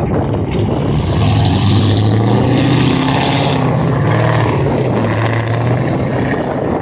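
Loud car engine revved up and held at a steady high pitch for several seconds, then easing off near the end.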